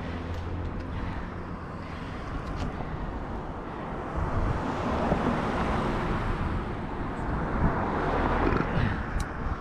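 Outdoor road noise heard while cycling: a steady low rumble with a hiss that swells in the middle of the stretch, like traffic going by.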